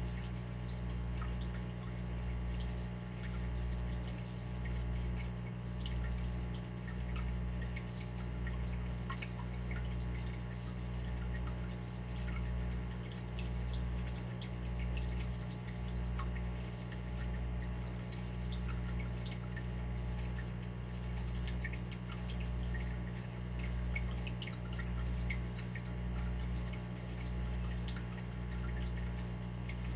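Running water with scattered small drips, over a steady low hum that swells about once a second.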